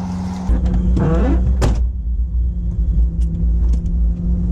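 Four-wheel drive's engine idling steadily, with a heavy low rumble coming in about half a second in and a sharp click about a second and a half in.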